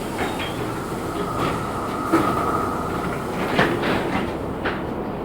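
Inside a LiAZ-6213 articulated city bus under way: steady running noise with rattles and a few sharp knocks. A faint whine lasts for about two seconds near the start.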